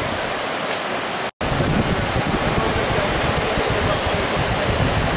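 Steady rushing of fast-flowing water, an even hiss with no pitch. It cuts out for an instant about a second and a half in, then comes back a little louder.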